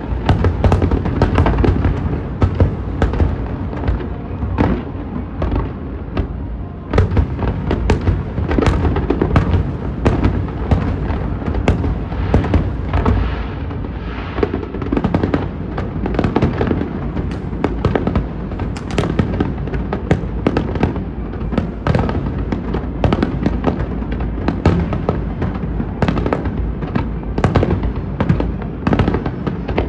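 Aerial fireworks bursting in a dense, continuous barrage: sharp cracks several times a second over a steady low rumble of booms.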